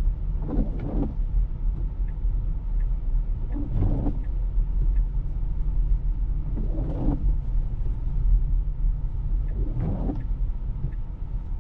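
Steady low rumble of a Tesla's tyres and road noise heard inside the cabin while driving on a snow-covered road. A short soft swish comes about every three seconds.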